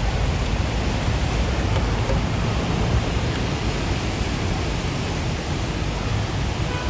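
Steady rushing noise of a car driving in heavy rain on a wet, flooded road, heard from inside the car: an even hiss with a low rumble underneath.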